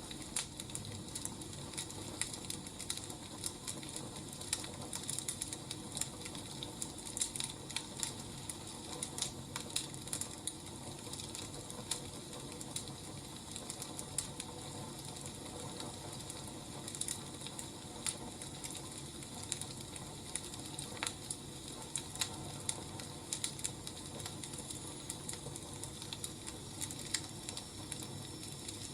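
Wood fire crackling: irregular small pops and snaps over a steady low hiss and rumble.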